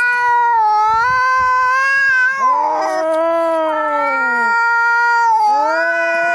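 Angry cats caterwauling: loud, drawn-out yowls, three long wails in a row with barely a break between them, one overlapping the next about two and a half seconds in.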